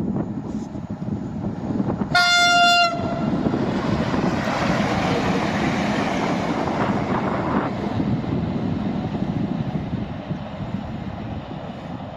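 ET41 electric locomotive sounding a single short horn blast about two seconds in, over the steady rumble of the train rolling past on the rails, which fades toward the end.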